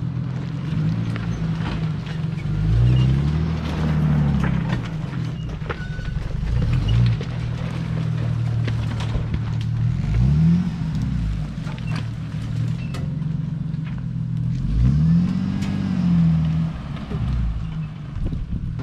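An off-road vehicle's engine running at low speed, revved up three times, about 3, 10 and 15 seconds in, each rev rising and falling within a second or two. Scattered sharp clicks and knocks are heard throughout.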